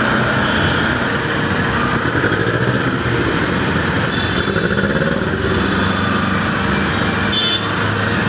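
Motorcycle engine, a Bajaj Pulsar 200NS single, running steadily while riding, with traffic noise around it.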